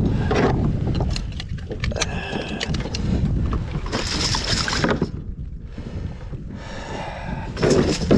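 Wind rumbling on the microphone, with water splashing and sloshing around a kayak and a few sharp knocks; two longer splashes come about four and seven seconds in.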